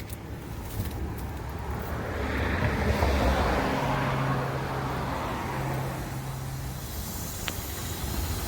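A car passing by on the road, its tyre and engine noise swelling to a peak about three seconds in and then fading, over a steady low hum.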